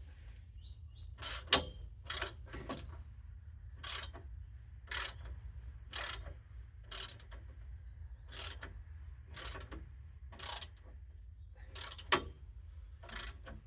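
Hand ratchet spanner tightening bolts, its pawl clicking in short bursts roughly once a second as the handle is swung back and forth, two strokes near the start and end sharper than the rest. A steady low hum runs underneath.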